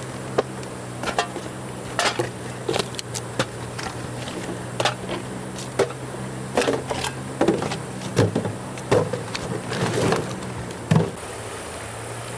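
Irregular knocks and clatters, bunched most thickly in the latter half, over a steady low hum.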